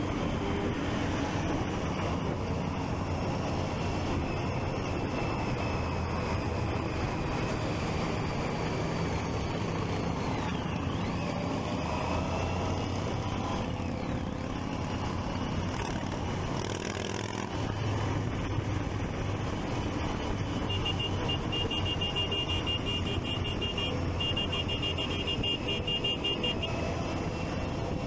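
Triumph Street Triple 675's three-cylinder engine running on the move, with steady wind and traffic noise. In the second half, a rapid high electronic beeping sounds for about six seconds, with a short break in the middle.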